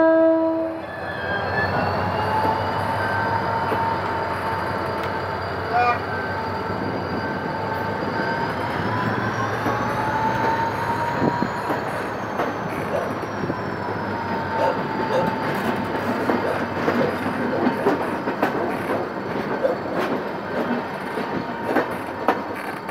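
A train horn blast ends about a second in, then a GM GT22CW-2 diesel locomotive and its passenger coaches roll slowly past as the train pulls out: a steady rumble with a faint wavering whine, and in the second half the wheels click over the rail joints as the coaches go by.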